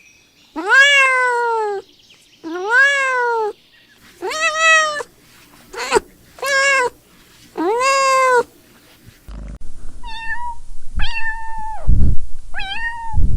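A cat meowing repeatedly: about six separate drawn-out meows, each rising then falling in pitch. From about nine seconds in, higher, shorter mews, typical of a kitten, come over low thumps and rumbling.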